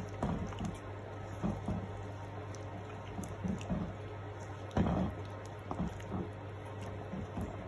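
Spoon stirring chicken feet and chopped vegetables in curry sauce in a pot: wet squelching with irregular soft knocks, the loudest about five seconds in, over a steady low hum.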